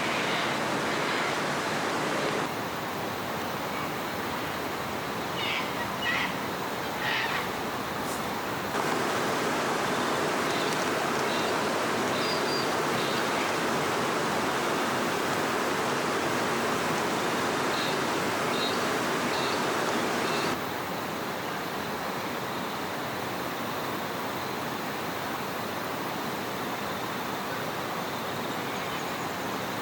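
Steady rushing of river water, with a few short bird calls scattered through it. The background noise shifts level abruptly three times.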